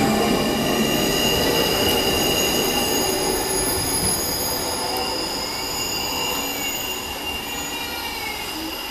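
Z 20500 double-deck electric train pulling away from the platform, its wheels squealing in several steady high tones over the rumble of the running gear as it takes the curve, the sound slowly fading as it draws away.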